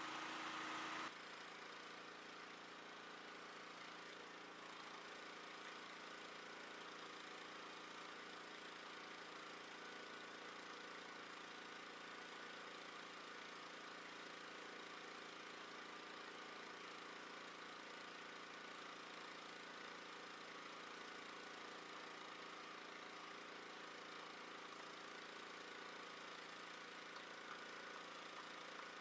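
Pressure washer running steadily with a hum; a louder spray hiss cuts off about a second in, leaving the machine running with a fainter hiss.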